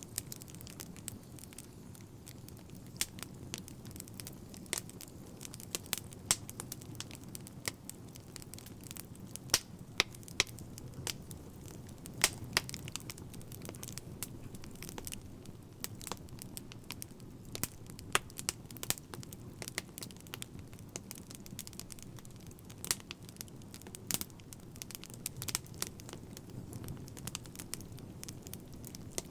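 Wood fire crackling: a steady low rumble of burning with many irregular sharp pops and snaps, several of them louder.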